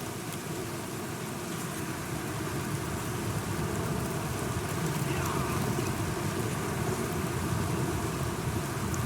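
Steady rain falling, with a low rumble underneath that grows slightly louder from about three seconds in.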